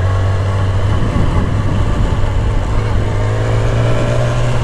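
Yamaha R6's inline-four engine running at low revs, rising slightly in pitch about three seconds in before easing back.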